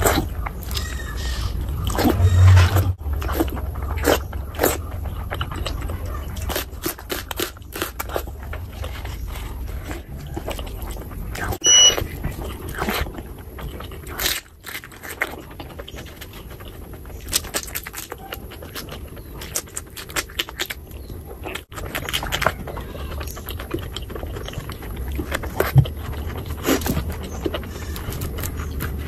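Eating sounds: wet chewing and lip smacking over a mouthful of chicken skin curry and rice, with irregular clicks and smacks, and the squish of a bare hand working rice through curry on a steel platter.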